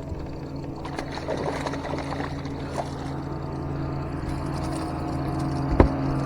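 Hooked largemouth bass splashing at the surface as it is brought to the boat, over a steady low hum, with one sharp knock near the end.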